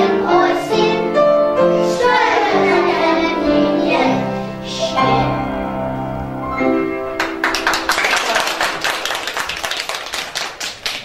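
Children singing an autumn song over a musical accompaniment, ending on long held notes about seven seconds in. Irregular clapping follows.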